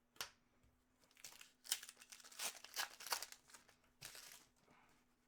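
Trading card pack wrapper crinkling in several short, crackly bursts as the cards are handled, busiest from about a second in to past three seconds, with another bit around four seconds.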